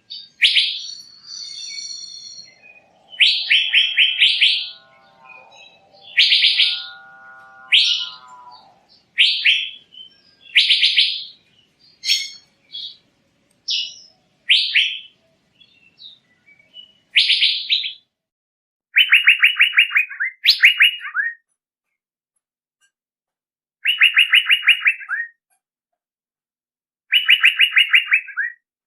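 Male Asian fairy-bluebird (cucak biru) calling: a series of short, rapidly pulsed phrases, each about a second long, repeated every one to three seconds with clean gaps between them. Lower wavering notes run beneath the calls a few seconds in, and the later phrases fall in pitch as they go.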